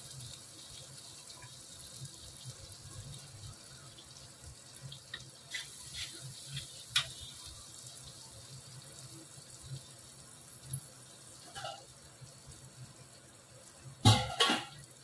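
Ground onion, garlic and chilli paste frying in hot oil in a brass kadhai: a steady faint sizzle. A steel spoon clicks and scrapes against the pan now and then, with two louder knocks near the end.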